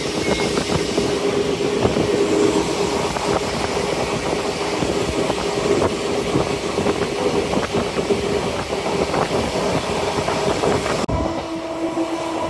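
Passenger train running, heard from inside the coach: a dense rattle with irregular clickety-clack of the wheels and a steady hum. About eleven seconds in the sound changes abruptly to a quieter, lower hum.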